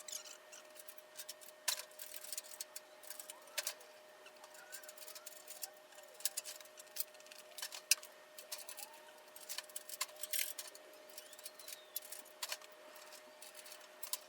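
Irregular light metallic clicks and clinks of hand tools and loosened fittings as a car's hood is being unbolted, over a faint steady hum.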